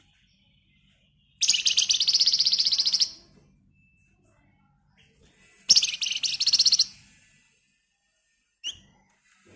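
Flamboyan (wergan Jawa) songbird giving two long, very fast rattling trills, the dense 'ngebren' song. The first trill lasts about a second and a half and the second just over a second, followed by one short call near the end.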